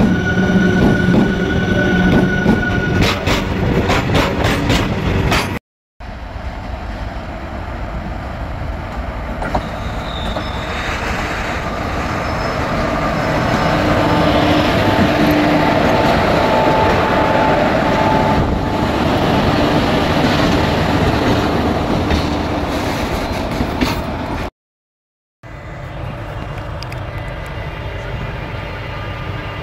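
Electric locomotives passing close by on the track, in three short clips with two brief dropouts between them. The first has a steady electrical whine over running noise, with a series of sharp clacks near the end. The second is a locomotive rolling past with rumbling wheels, swelling louder and then easing off. The last is a quieter, steady rumble from an approaching locomotive.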